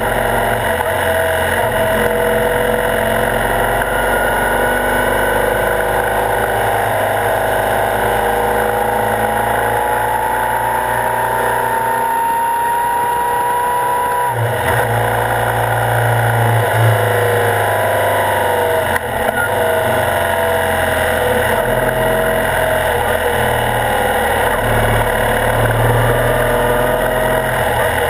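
BMW R65's air-cooled flat-twin engine running under way, picked up close to the front fork. Its note rises steadily as it pulls, drops sharply about halfway in as it shifts up, then climbs and falls again.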